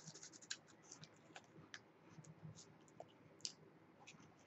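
Faint chewing of Cheetos Puffs cheese puffs: soft, irregular crunching clicks.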